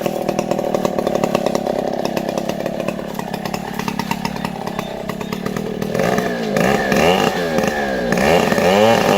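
Stihl chainsaw engine running steadily, then from about six seconds in getting louder with its engine speed rising and falling repeatedly.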